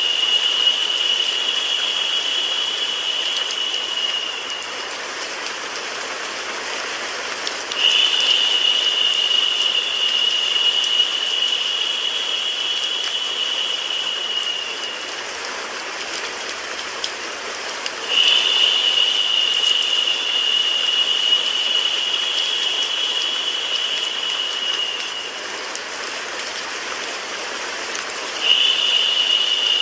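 Recorded rain mixed with white noise: a steady hiss. A brighter, louder layer of hiss cuts in suddenly about every ten seconds, lasts about seven seconds, then fades away.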